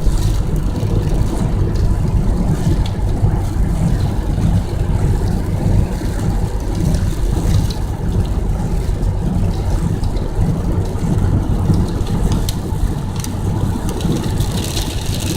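Steady low rumble of a car's engine and tyres on a wet freeway, heard from inside the cabin.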